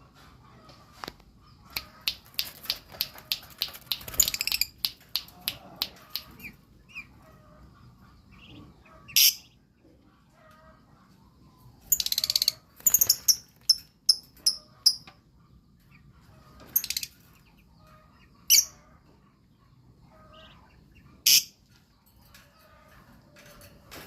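Lovebird calling with shrill, high-pitched chirps: a quick run of them between about two and five seconds in, then single sharp calls every few seconds.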